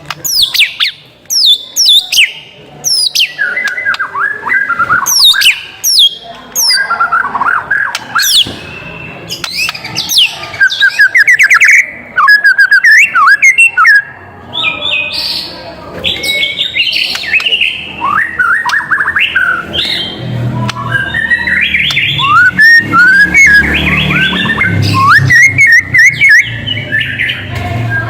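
White-rumped shama singing a long, continuous and varied song of loud whistled phrases, quick chirps and steep falling sweeps.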